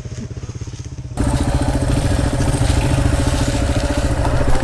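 Dirt bike engine running with a rapid, even exhaust pulse, quieter at first, then abruptly louder and fuller about a second in.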